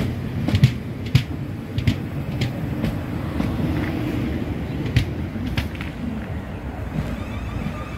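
South Western Railway electric multiple unit running past along the platform, a steady low rumble with a series of sharp clicks as its wheels cross the rail joints. The rumble eases after the last carriage goes by near the end.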